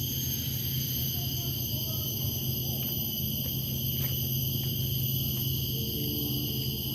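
Steady, high-pitched droning of forest insects, several unbroken tones at once, over a low steady hum.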